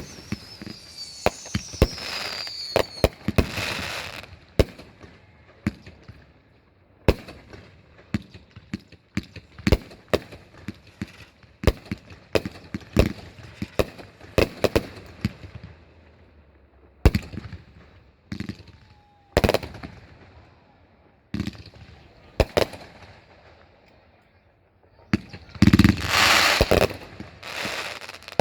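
Consumer fireworks going off: a string of sharp bangs at irregular intervals, a whistle falling in pitch in the first few seconds, and a dense stretch of crackling bangs near the end.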